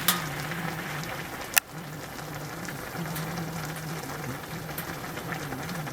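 Freshly lit fire burning with a steady crackle and two sharp pops, the louder one about a second and a half in.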